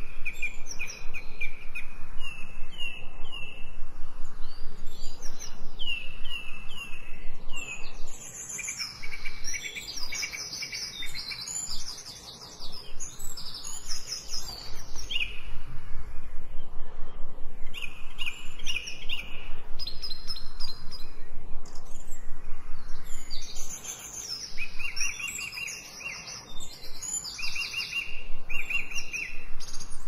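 Songbirds singing, with repeated short chirping phrases and higher trills overlapping one another.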